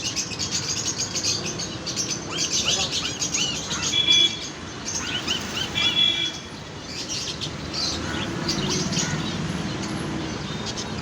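Many small birds chirping and twittering together, with two louder clear whistled notes about four and six seconds in.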